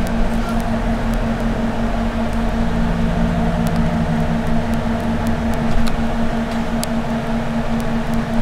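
Steady hum and low rumble inside a moving Long Island Rail Road commuter train car, with a constant mid-pitched tone over it and a few faint clicks.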